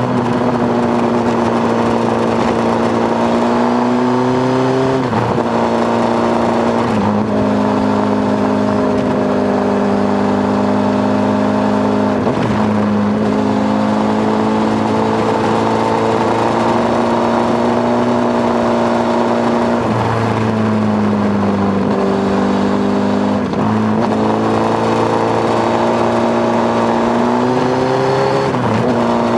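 Onboard sound of a Honda CBR1000RR's inline-four engine at speed, with wind rush. The engine note climbs gradually and then changes pitch abruptly at each gear change, about six times.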